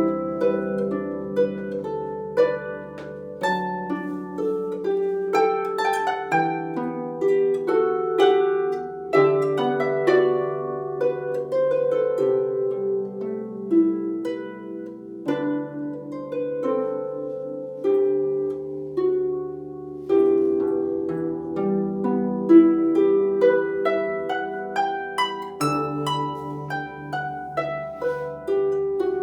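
Harp playing a flowing piece of plucked notes: a higher melody over ringing lower notes that change every second or two.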